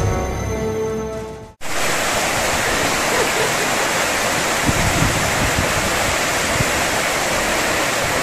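Background music fading out over the first second and a half. After a sudden cut, the steady rush of flowing water follows.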